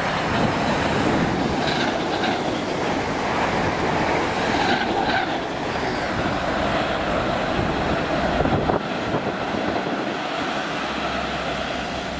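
Electric train running past on the rails, a steady loud wheel-and-rail noise that eases a little near the end.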